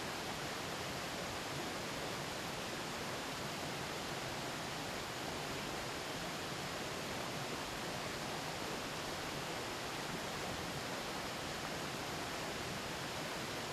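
A river flowing steadily, an even murmur of running water that holds the same level throughout.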